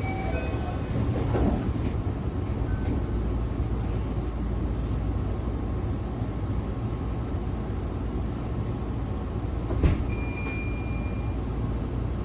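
Keihan 6000 series train running, heard from inside the car: a steady rumble of wheels and drive. A sharp knock comes about ten seconds in, followed by a brief high ringing tone. This is the train's original running sound, which the refurbishment left unchanged and which is likened to a Tobu train's.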